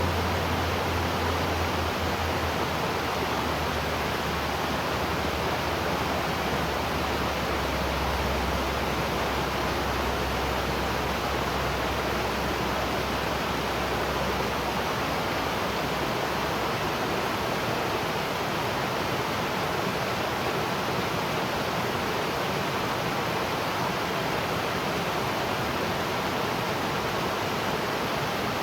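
Waterfall: a steady, even rush of falling water. A low rumble sits underneath during the first half and fades out about halfway through.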